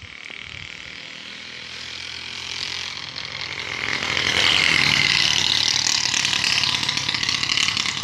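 Rain falling, a steady hiss of many drops that swells markedly about four seconds in as the shower grows heavier.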